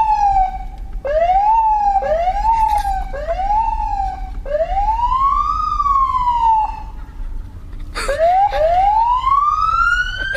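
Police car siren sounded in several short rising-and-falling whoops, then one longer wail, then a brief blip and a long slow climb to a higher pitch near the end.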